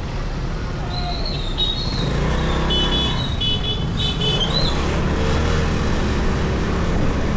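Steady engine and traffic rumble on a motorcycle ride through city streets. Around the middle come a few high, short beeps, like a small horn or electronic beeper.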